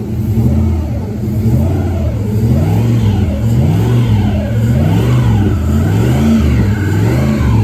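Truck engine running, its pitch rising and falling again and again as it is revved or driven.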